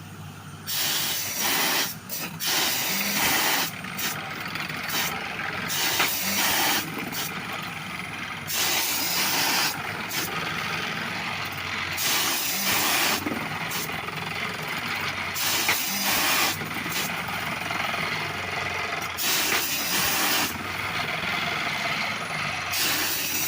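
An engine running steadily beneath repeated loud bursts of hissing noise, each lasting about a second or two. The sound cuts off abruptly at the end.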